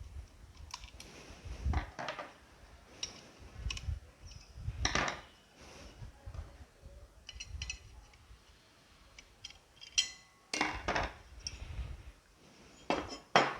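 Hand tools and small metal parts clicking, clinking and scraping at irregular intervals as a nut-bolted bushing is unfastened from a mixer motor's frame, with one sharp click about ten seconds in.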